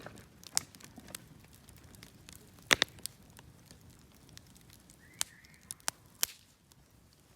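Wood bonfire burning, with irregular sharp crackles and pops over a low hiss; the loudest is a quick double pop a little under three seconds in.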